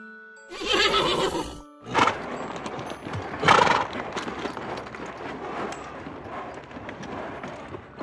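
A horse neighs once, a call about a second long starting about half a second in. Two short, sharp noisy sounds follow, the louder one about three and a half seconds in, over a steady low rustle.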